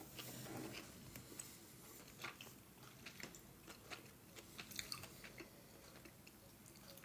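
Faint chewing: a person eating a mouthful of soft gnocchi with lips closed, with small mouth clicks every so often.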